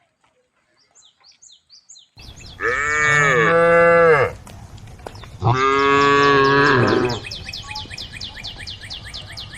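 Cow mooing twice, each a long call of about a second and a half, the second starting about five and a half seconds in. Faint high chirps come before the first moo, and a rapid run of high chirps follows the second.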